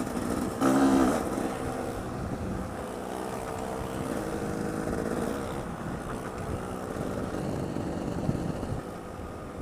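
Trail motorcycle engine running under way, with wind noise over an open-housing helmet-mounted GoPro's internal mic; a louder burst comes about a second in.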